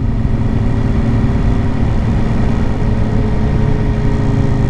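Suzuki GSX-R600 inline-four sport bike engine running at a steady cruising speed while riding, heard over the wind.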